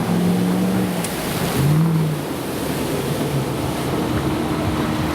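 Off-road vehicle engine running, with a short rising rev about a second and a half in, over a steady rushing splash of water as the vehicle is driven through water to wash its wheels.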